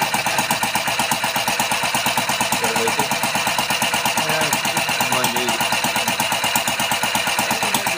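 Homemade engine built from beer cans running steadily, with a fast, even pulse.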